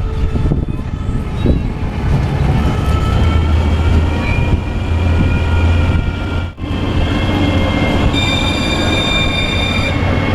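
A ride vehicle running along its track with a steady low rumble and thin squealing wheel tones that drift upward. The sound briefly cuts out about six and a half seconds in, and near the end a strong high-pitched squeal sets in.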